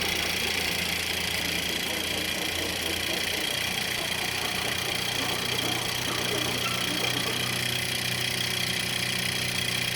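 Small model nitro engine converted to run on compressed air, running steadily with a hiss of air, driving a small generator. Its pitch steps up slightly about three and a half seconds in.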